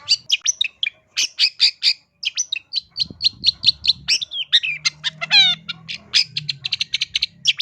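Long-tailed shrike (cendet) singing a fast, varied run of short sharp chirps and chattering notes full of mimicked calls, with one falling, stepped call about five seconds in.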